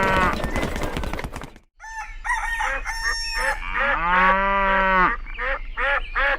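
Farm animal calls, mostly chickens clucking, with one longer drawn-out call about four seconds in. The sound drops out briefly about a second and a half in.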